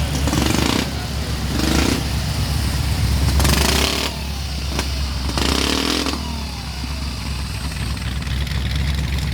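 Car engine running with a low, steady rumble, and four short, louder bursts of revving.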